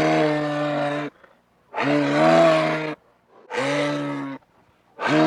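An animal calling over and over: about four steady, even-pitched calls, each about a second long, with short silent gaps between them.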